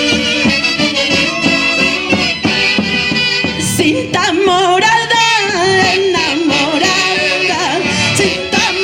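Andean folk orchestra playing live: a rhythmic instrumental passage, then a high singing voice with strong vibrato comes in about four seconds in.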